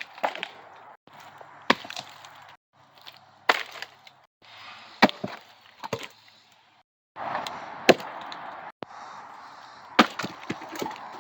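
Sharp wooden knocks and cracks of firewood pieces striking wood, about a dozen in all, spread over several short clips that are cut together with abrupt breaks.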